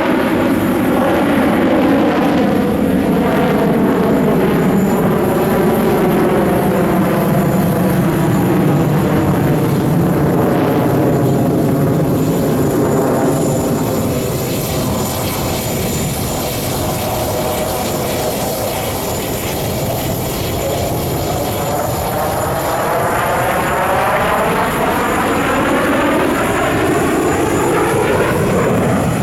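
Jet fighters of an aerobatic team flying a display, their engines giving a loud, continuous roar. It eases slightly in the middle, and a swirling phasing sweeps down in pitch at first and back up near the end as the jets pass.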